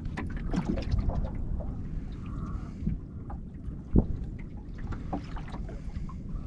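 Water lapping against the hull of a small boat, with small knocks and one louder thump about four seconds in.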